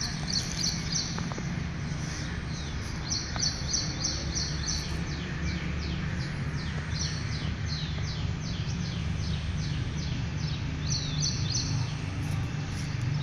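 A bird calling in runs of short, high chirps, about five a second, in several bursts, over a steady low rumble of background noise.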